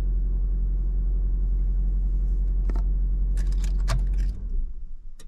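Fiat Egea's 1.4-litre non-turbo four-cylinder petrol engine idling steadily, heard from inside the cabin, with a few light clicks, then switched off a little over four seconds in, the hum cutting out.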